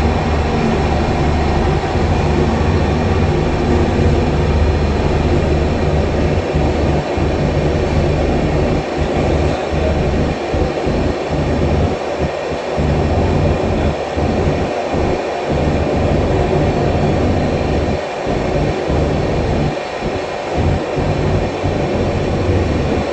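Train running: a continuous rumble with a steady low hum underneath.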